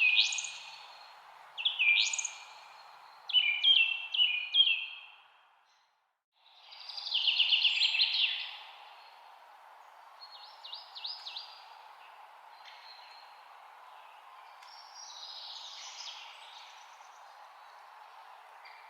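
Several songbirds chirping and calling over a steady background hiss. The loudest bursts of song fall in the first half, the sound fades out and back in about six seconds in, and fainter chirps follow.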